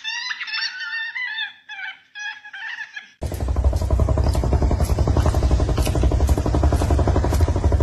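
A parrot calling and chattering in short, warbling, pitched calls. About three seconds in, these are cut off by a much louder, steady, bass-heavy sound.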